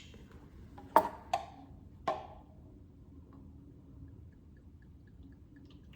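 A few sharp clicks and knocks from kitchen items being handled while tamari is measured out: one at the start and three more in the first two seconds. A faint run of short, evenly spaced high ticks follows near the end.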